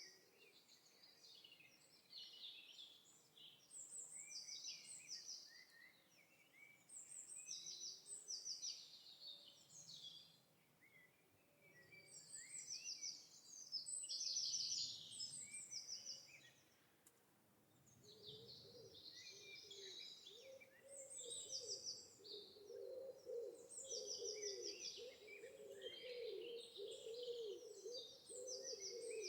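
Several birds singing and chirping, with quick high trills repeating every few seconds. About two-thirds of the way in, a low wavering call joins in and keeps going beneath them.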